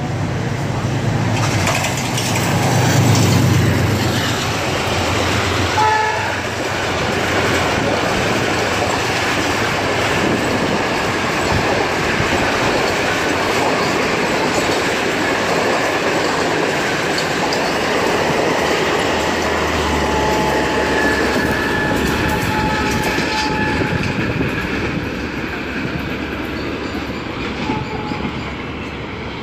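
Diesel locomotive of the Pakistan Railways AGE-30 class passing close by, its engine hum loudest in the first few seconds. A short horn blast comes about six seconds in. Then the long, steady rumble and wheel clatter of the passenger coaches rolling past.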